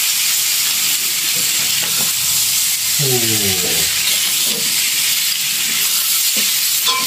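Fish perkasam frying with a steady sizzle in a metal wok, stirred with a metal spatula that scrapes and clicks against the pan. A short falling voice-like sound comes about three seconds in.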